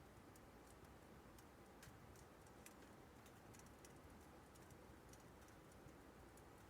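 Burning firewood crackling faintly, with small irregular pops and snaps, over a faint low steady rush.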